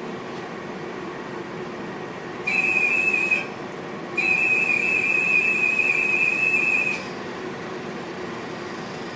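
A whistle blown twice at one high, steady pitch: a short blast of about a second, then a longer one of nearly three seconds, over the steady hum of a train cab.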